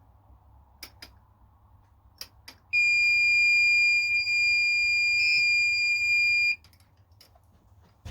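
An electronic buzzer sounds one steady, high-pitched beep lasting about four seconds, preceded by a few light clicks.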